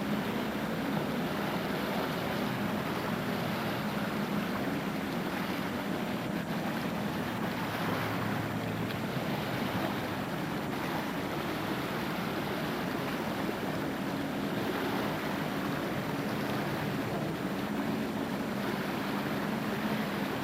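Jet ski engine running steadily with water rushing and wind buffeting the microphone; the engine note wavers slightly as the throttle changes.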